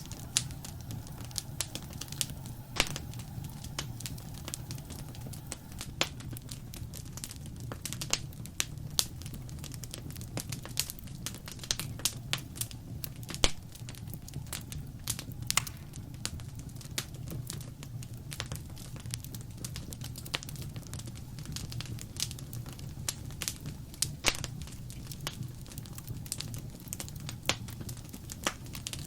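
Wood fire crackling and popping: many sharp, irregular pops over a steady low rumble of the flames.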